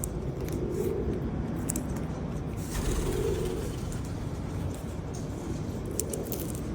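Low wind rumble on a lavalier microphone, swelling and easing in gusts, with light rustling clicks over it.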